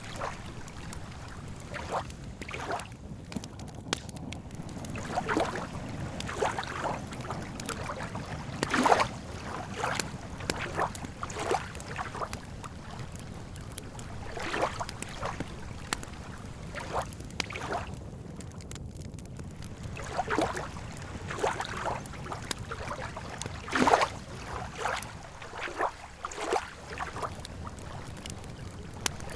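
Lake water lapping and splashing at irregular intervals, every second or two, over a steady low rumble, with two louder slaps. Faint crackling of a campfire runs underneath.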